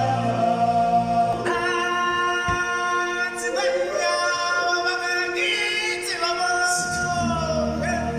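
Show music with a choir singing long held notes. The bass and beat drop out about a second and a half in, leaving the voices almost alone, and come back near the end.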